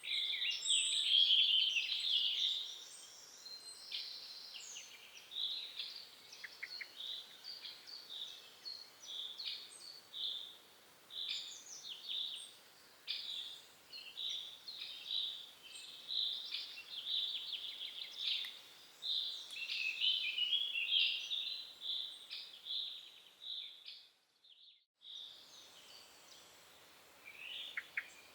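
Small birds chirping and singing in woodland, many short calls overlapping several times a second. The sound drops out briefly near the end, then the calls resume.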